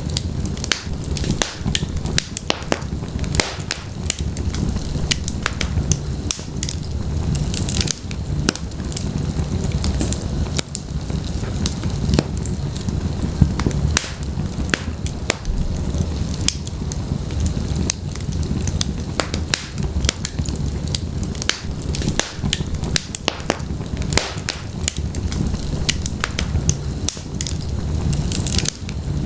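Wood fire burning in a fireplace: logs crackling and popping in quick, irregular snaps over a steady low rumble of the flames.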